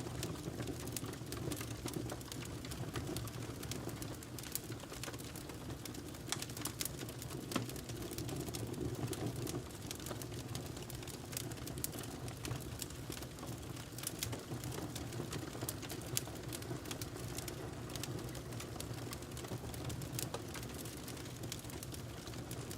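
Wood fire crackling in a fireplace: irregular sharp snaps and pops over a steady low rush of burning.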